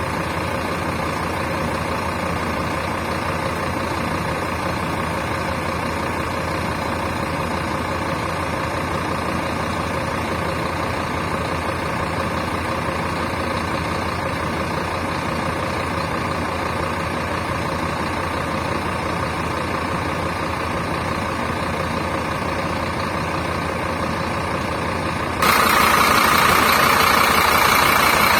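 Scania K310 coach's diesel engine idling steadily. About three seconds before the end a louder steady rushing sound suddenly cuts in over it.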